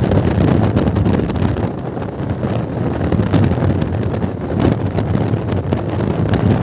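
Wind buffeting the microphone of a motorcycle on the move, a loud steady rush with a low drone beneath it.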